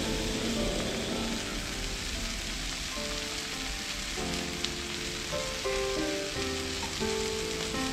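Black-eyed peas, tempered with onion, chillies and curry leaves, sizzling steadily in oil in a clay pot. Background music notes come in about three seconds in.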